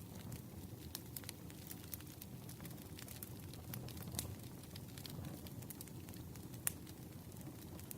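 Campfire crackling: a low, steady rush of burning wood with scattered sharp snaps and pops, one louder pop toward the end.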